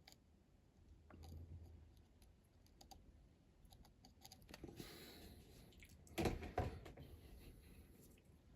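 Small handling noises on a workbench: faint clicks and taps of a small part and tools being picked up and set down. A short scrape about five seconds in, then two louder knocks in quick succession a little after six seconds.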